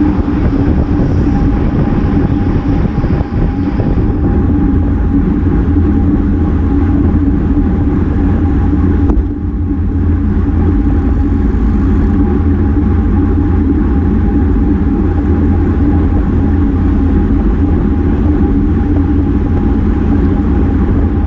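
Steady wind rumble on a bicycle-mounted GoPro moving at race speed, with a steady hum under it; the noise dips briefly about nine seconds in.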